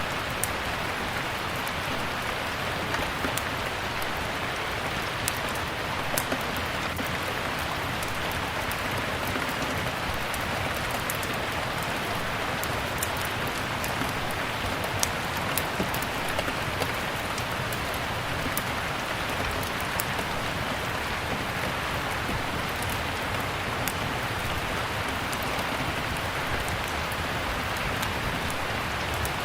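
Steady rain mixed with a crackling wood fire: an even rushing hiss with scattered sharp crackles over it.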